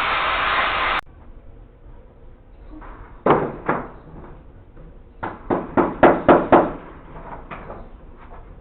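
A steady rushing noise that cuts off suddenly about a second in, then sharp knocks: two, and a little later a quick run of about six.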